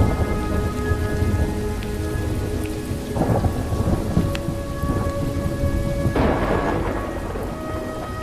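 Recorded thunderstorm: steady heavy rain over a continuous low rumble of thunder, with two crackling swells of thunder about three and six seconds in. Faint sustained music notes sit underneath.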